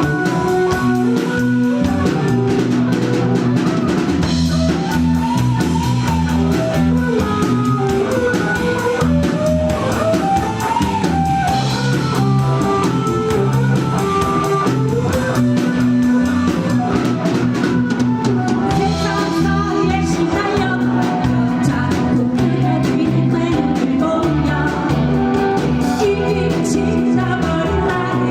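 Live rock band playing a song: electric guitar and drum kit under a singer's melody, loud and continuous.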